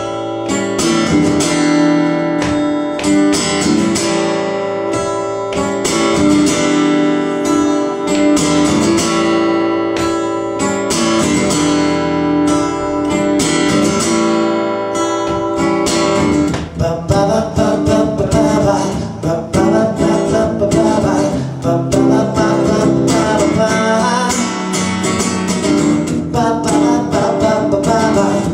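Acoustic guitar playing an instrumental break in a live song, strummed steadily; about two-thirds of the way in the strumming thins out into sparser, more separate notes.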